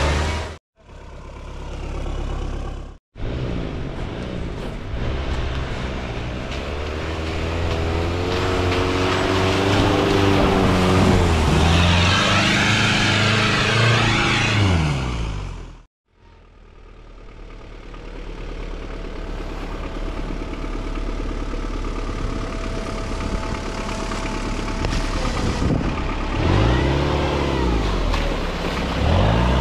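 Daihatsu Rocky 4x4's engine revving up and down under load as it pushes through deep mud. The sound drops out suddenly three times for a moment at edits.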